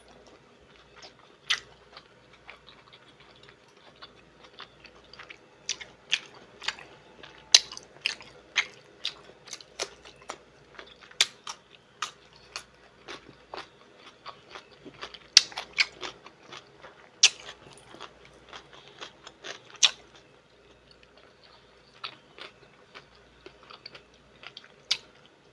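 A person eating a seafood boil close to the microphone: chewing and mouth smacks with frequent sharp, irregularly spaced clicks.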